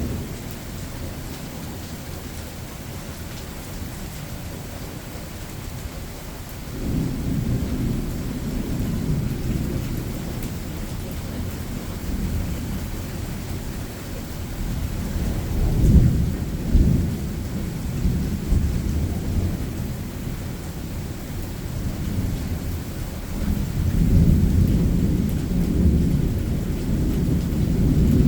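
Thunder rolling over steady rain. A low rumble builds about a quarter of the way in, with two sharper loud peaks near the middle, then swells again near the end.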